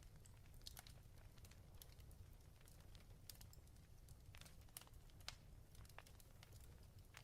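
Fireplace fire crackling faintly: scattered, irregular little pops and snaps over a low steady rumble.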